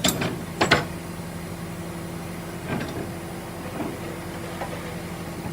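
A vehicle engine idling with a steady hum, with a few knocks: two sharp ones in the first second, then three fainter ones spread over the rest.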